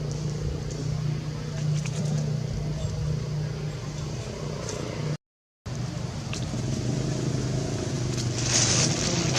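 A steady low mechanical hum, cut by a brief dead gap a little past halfway, with a short burst of hiss near the end.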